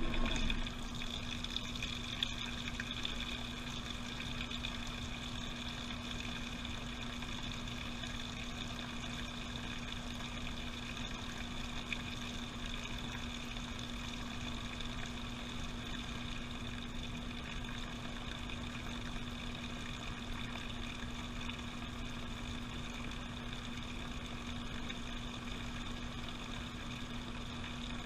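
Washing machine running, heard from inside the drum: a steady motor hum with a constant high whine over water noise.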